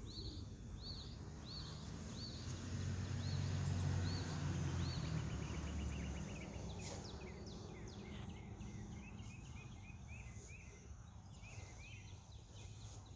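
Outdoor ambience: a small wild bird chirping over and over, about two short chirps a second, with a quicker run of chirps later on. Under it, a low rumble swells and fades in the first half.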